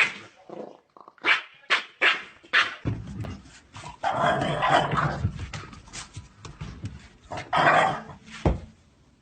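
Dog barking: a quick run of short, sharp barks, then longer, louder bouts around the middle and near the end over a low rumble.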